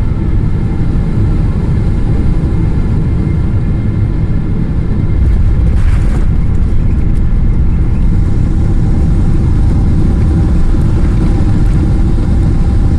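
Loud rumble and steady engine whine heard inside the cabin of a Boeing 777-200ER rolling on the runway after touchdown, growing louder about five seconds in.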